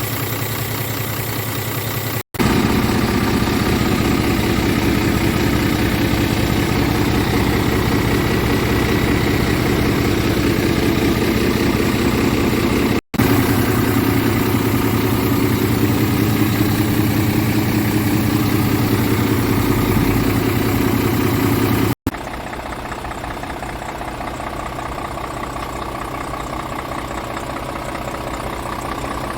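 Scania R500 truck's 13-litre inline-six diesel idling steadily, heard in several takes cut together. The sound changes abruptly about 2, 13 and 22 seconds in, louder in the two middle takes and quieter in the last.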